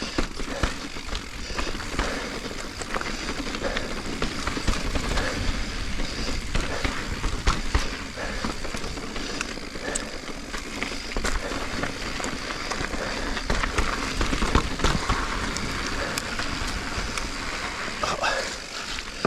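Full-suspension mountain bike (Giant Reign Advanced Pro 29) ridden at pace along a dirt and rock trail. A steady rushing of tyres and air runs throughout, with frequent small knocks and rattles from the bike over the rough ground.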